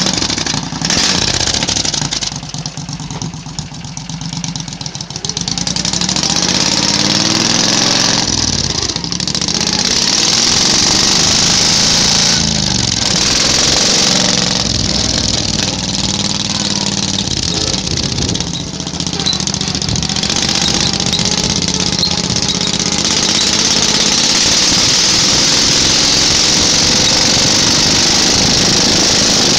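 Small gasoline engine of a homemade garden-tractor-based tractor running under load, its pitch rising and falling repeatedly as the throttle and load change.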